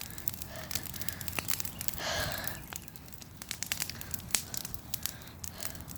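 Bonfire of dry tree branches crackling, with irregular sharp pops throughout and a brief louder rush of noise about two seconds in.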